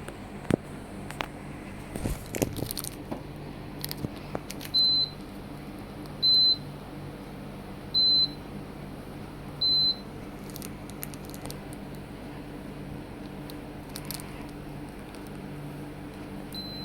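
Midea mini-split air conditioner indoor unit giving short single beeps, the acknowledgement tone for button commands: four evenly spaced about every second and a half, then one more near the end. A few sharp clicks come in the first three seconds, over the steady low hum of the running unit.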